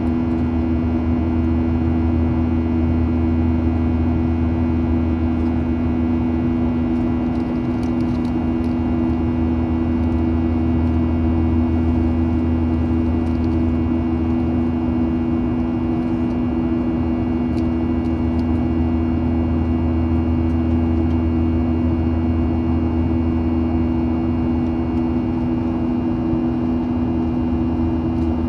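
Cabin noise inside a Boeing 737-800 airliner: a steady drone of its CFM56 turbofan engines and airflow, with a strong low hum and a few constant humming tones over a rushing noise.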